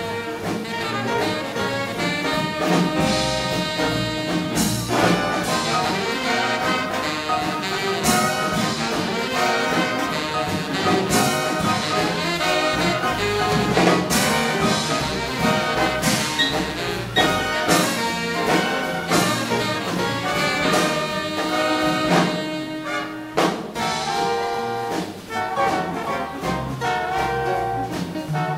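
Big band playing hot swing jazz live: trumpets, trombones and saxophones over a rhythm section, with sharp accented hits every few seconds.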